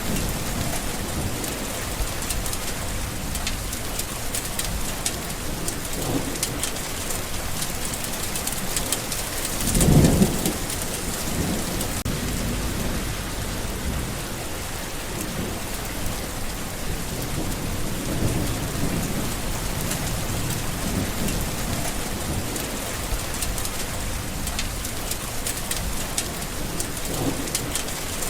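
Steady heavy rain: a dense hiss of falling rain with many close drops pattering. A brief low rumble swells and fades about a third of the way in.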